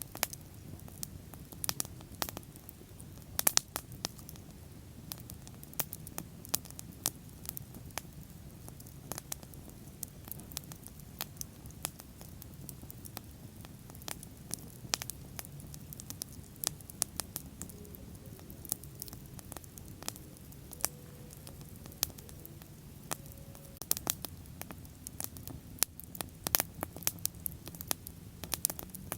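Bonfire crackling: irregular sharp pops and snaps of burning wood, several clustered close together at times, over a low steady rumble of the flames.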